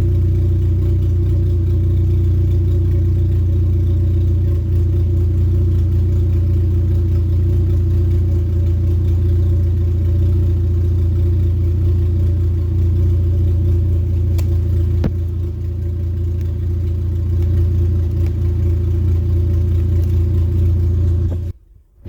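Honda K24/K20 four-cylinder engine idling steadily and loudly on one of its first startups after being built, with no revving. The sound cuts out suddenly for a moment near the end.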